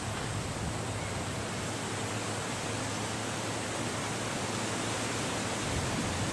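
Steady wind, an even rushing hiss that holds at one level.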